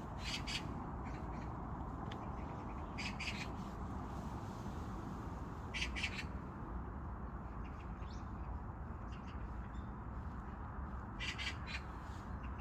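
Birds calling in short clusters of high, harsh calls, four times, over a steady low background rumble of park ambience.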